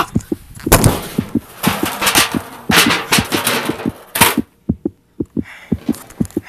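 Rapid, irregular thumps several times a second, with bursts of rustling noise and a brief lull near the end: hurried footsteps and handling noise of a handheld camera carried in the dark.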